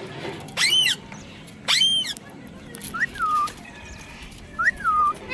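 Young pet parrot calling: two harsh squawks about a second apart, then two shorter whistled notes that rise and fall.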